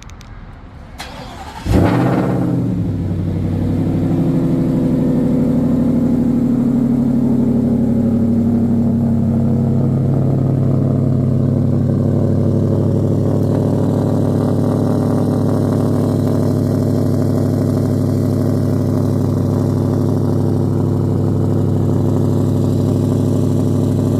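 2026 Shelby Ford Raptor R's supercharged V8 cold-started by remote: a brief crank, then it catches with a loud rev flare that falls away into a steady fast cold idle. About ten seconds in the idle settles a little lower as it idles down.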